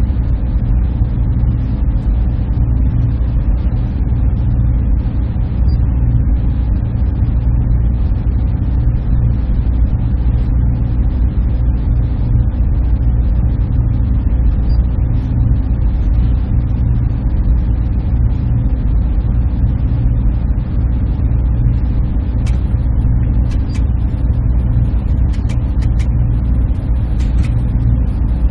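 Server room machinery droning steadily, the low hum of cooling fans and air handling, with a few faint ticks near the end.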